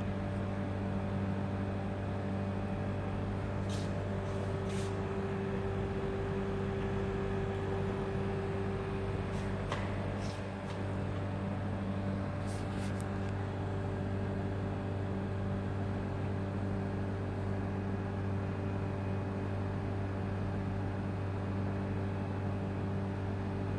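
A steady low machine hum holding several fixed tones, with a few brief, faint, sharp high sounds about four, five, ten and thirteen seconds in.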